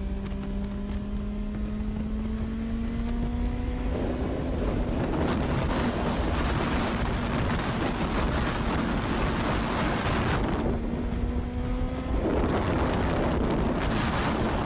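Motorcycle engine at highway speed, its pitch rising slowly as it accelerates. Wind rushes over the microphone in loud gusts, covering the engine from about four seconds in to about ten seconds, and again near the end.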